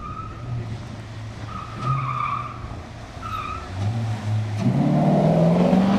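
Chevrolet Corvette racing through a speed test course, its engine low with short bursts of tire squeal. About three-quarters of the way in, the engine revs up hard and gets much louder as the car accelerates.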